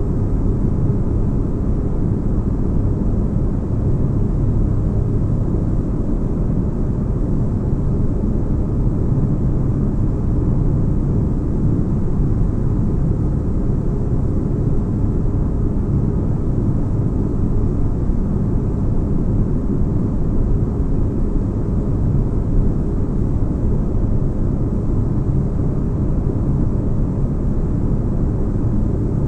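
Steady spaceship-interior ambience: a constant deep bass rumble with a faint steady hum above it, unchanging throughout.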